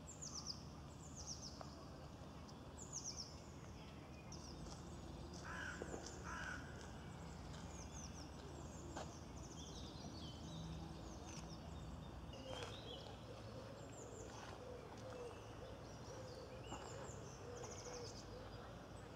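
Birds chirping: many short, high-pitched calls that slide downward, repeating on and off, over a faint low rumble.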